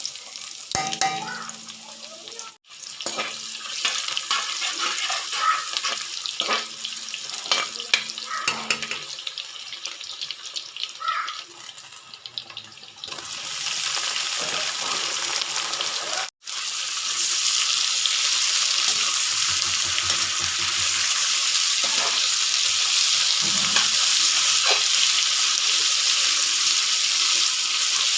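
Scattered dry crackling and clicking, then from about halfway a steady loud hiss of running water.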